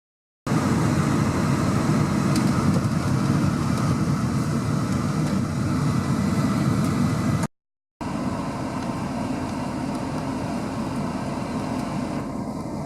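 Steady rushing outdoor background noise with a heavy low rumble, like wind on the microphone or distant traffic. It breaks off into silence about seven and a half seconds in, then resumes a little quieter.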